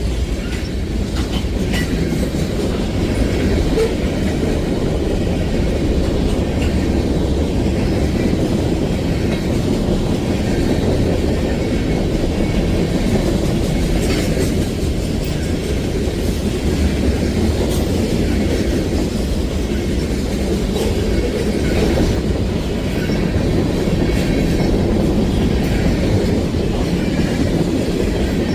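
Freight train cars rolling steadily past, wheels clicking over the rail joints with a continuous low rumble.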